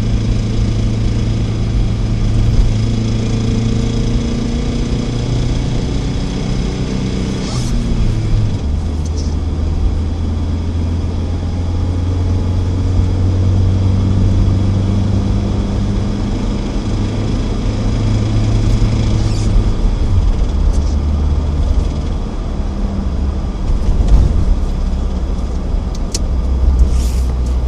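ZMZ-409 four-cylinder petrol engine running under load as the vehicle accelerates through the gears, its pitch dropping at each gear change, about a third of the way in and again later. The engine has a knock that appears under way, which the owner is recording.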